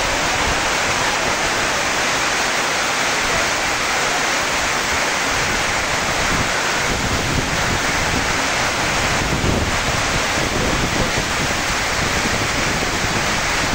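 Heavy downpour: a steady, dense hiss of rain falling on grass, paving and trees.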